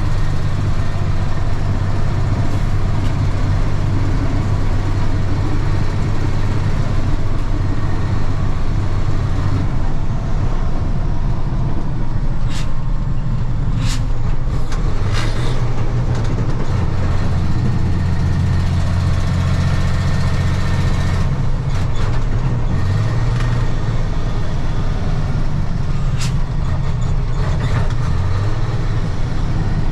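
1995 Ford L8000 truck's diesel engine running with a steady low drone that shifts pitch a couple of times, with a few sharp clicks or knocks around the middle and once near the end.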